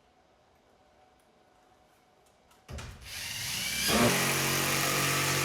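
A power drill starts about two and a half seconds in after a quiet stretch. It rises in pitch over about a second, then runs steadily, driving a screw into wooden bracing.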